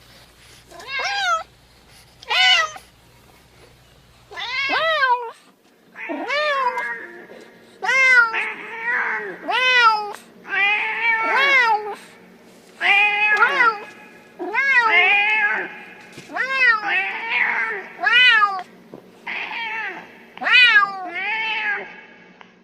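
Domestic cat meowing over and over, a long series of separate meows about a second apart, each rising and then falling in pitch.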